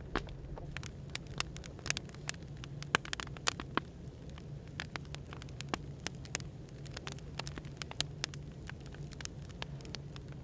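Burning firewood crackling, with frequent irregular sharp pops, over a steady low hum and hiss of background noise.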